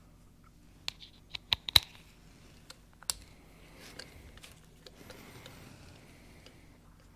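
Irregular sharp clicks and clinks of metal hand tools, a socket and wrench being handled: four quick ones between about one and two seconds in and another near three seconds, then faint rustling.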